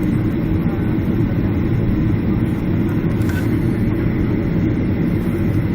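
Steady low rumble of a Boeing 767's engines and airflow heard from inside the passenger cabin.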